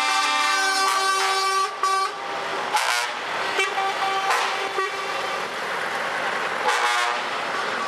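Truck air horns blowing: a long chord of several horns at once for the first two seconds, then a string of shorter horn blasts of different pitches.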